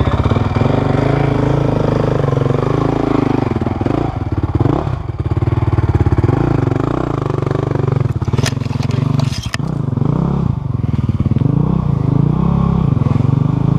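Off-road motorcycle engine running and revving, its pitch rising and falling again and again. A few sharp clacks come between about eight and a half and nine and a half seconds in.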